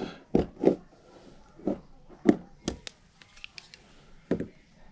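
A handful of separate sharp knocks and clicks at irregular intervals: hard plastic and tool contact as an old wall-mounted thermostat, scored around its edge, is worked loose. The loudest knock comes a little past two seconds in.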